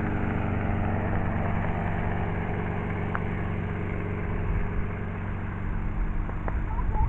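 Helicopter engine and rotor drone, steady and slowly fading.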